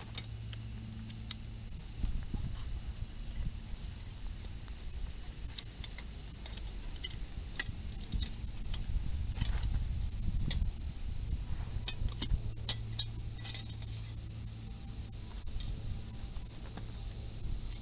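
A steady chorus of insects, crickets or similar, chirring in a high band throughout. Scattered light clicks and knocks come and go in the middle stretch, over a low steady hum.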